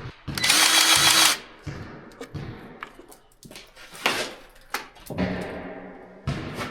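A powered grease gun whirs as it pumps grease into the pickup's front-end grease fittings. The first run lasts about a second. A shorter, lower whir comes near the end, with small clicks of the gun's coupler on the fittings in between.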